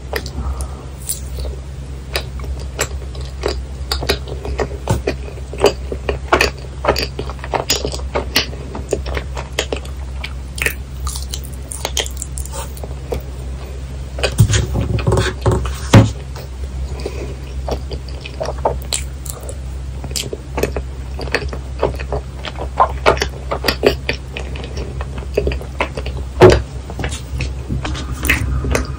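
Close-miked chewing of chewy yakgwa, Korean honey cookie topped with ice cream: many irregular, wet, sticky mouth clicks and smacks, busiest about halfway through. A steady low hum runs underneath.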